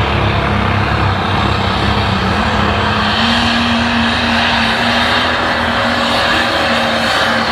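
Light pro stock pulling tractor's diesel engine running flat out under load during a pull. A loud, steady engine noise holds throughout, with a pitched tone that comes and goes.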